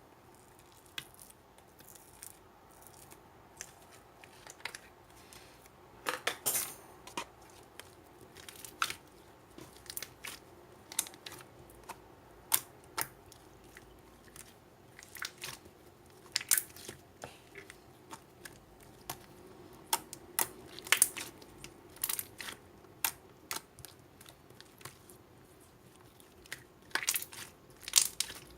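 Slime being played with by hand: irregular sharp clicks and small pops as it is squeezed, stretched and poked, denser in a few short clusters.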